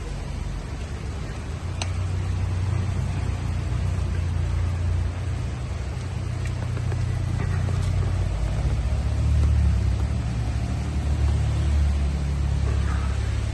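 Steady hiss of heavy rain with a low rumble underneath that swells and fades, and a faint click about two seconds in.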